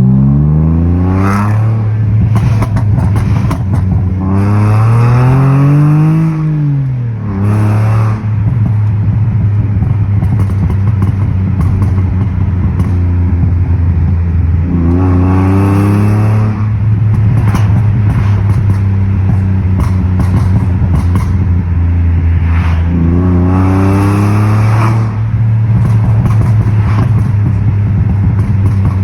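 Ford Mustang V6 with an aftermarket exhaust idling steadily, revved up and back down about five times, one longer rev held for a couple of seconds.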